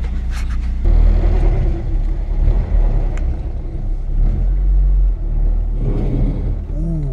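Honda Civic Si with an aftermarket Invidia Q300 exhaust pulling away: the engine and exhaust rumble rises sharply about a second in and carries on under load.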